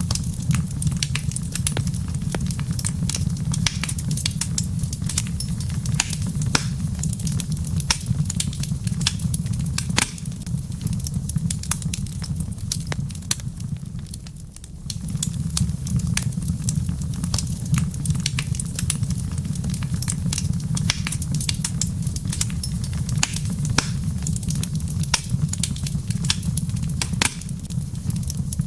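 Wood fire crackling in a fireplace: a steady low rumble of burning with many sharp, irregular pops and snaps. The rumble briefly drops away about halfway through, then returns.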